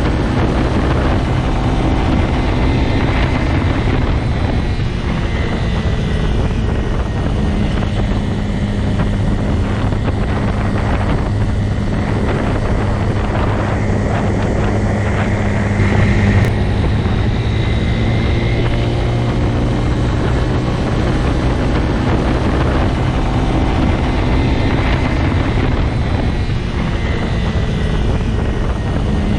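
Motorcycle engine running at a steady pitch, with a brief louder moment about 16 seconds in.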